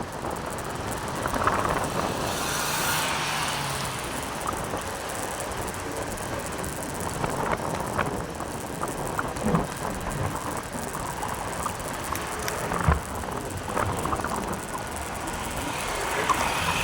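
Steady road and wind noise from riding a motorcycle, with scattered small clicks and knocks. A swell of hiss comes about two to three seconds in and again near the end.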